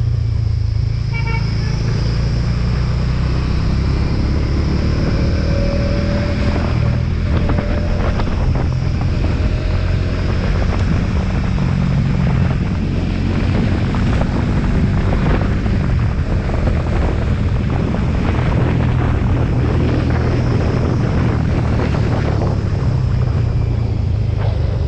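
Motorcycle engine running steadily while riding, under a constant rush of noise.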